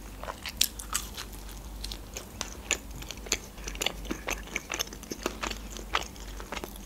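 A person chewing a mouthful of pizza close to the microphone: many small, irregular mouth clicks and smacks, several a second.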